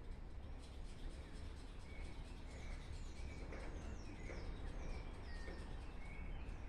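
Birds calling: many quick high chirps that fall in pitch, and short level whistled notes, over a low steady rumble.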